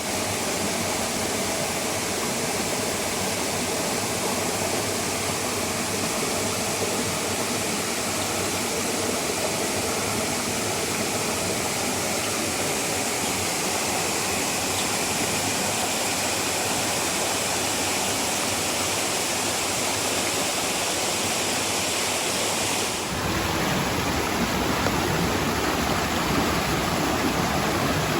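Stream water rushing over a waterfall in a steady, strong flow. About three-quarters of the way through, the rush shifts abruptly to a louder, deeper roar.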